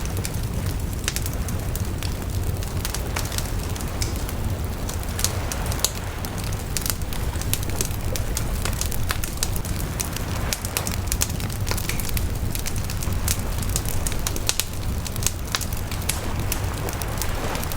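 Wood bonfire crackling, with frequent irregular sharp pops and snaps over a steady low rumble of burning.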